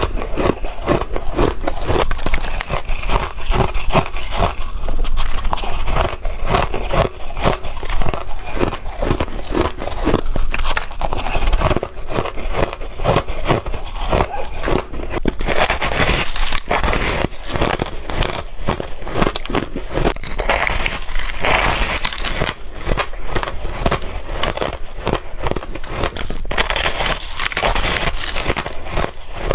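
Crushed ice being bitten and chewed close to the microphone, a dense run of crunches and crackles. About halfway through, the crunches turn brighter and sharper, as the ice changes from spoonfuls of crushed ice to larger chunks.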